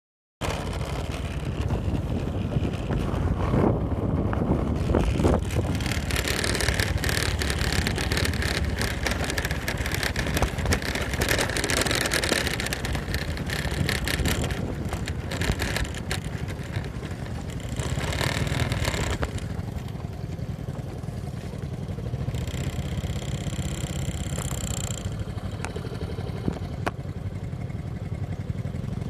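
Motorcycle riding along with its engine running steadily under a rushing noise of wind and road, the rushing swelling louder a few seconds in and again later.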